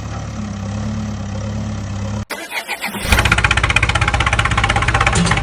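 An engine runs steadily, then cuts off about two seconds in. After a short irregular sputter it starts and runs louder with a fast, even beat.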